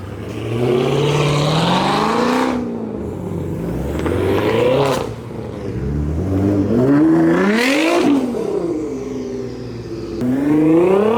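A performance car's engine accelerating hard. The revs climb and then fall away at each upshift, about four times.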